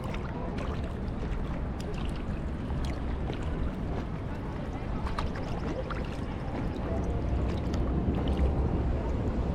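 Kayak paddling: water splashing and dripping off the paddle in many small sharp splashes, over a steady low rumble of wind on the microphone.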